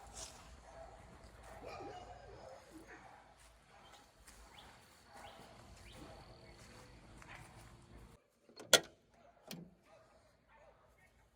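Faint background noise with a thin steady high tone, cutting off abruptly about eight seconds in. A sharp, loud knock follows, then a lighter one under a second later.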